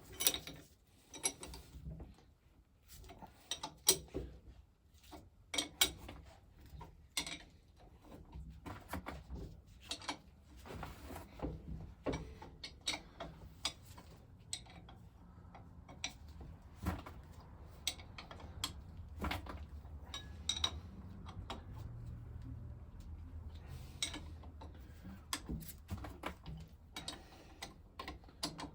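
Irregular metallic clicks, taps and knocks of hand tools and metal pump parts being handled during reassembly of a stationary-engine water pump. A low steady hum sits underneath from about halfway through.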